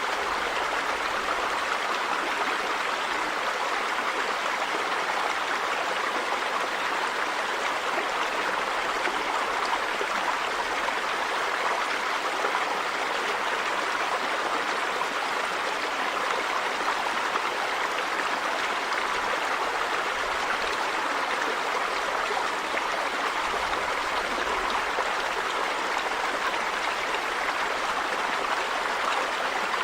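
River water running steadily over stones: an even rushing and babbling with no breaks.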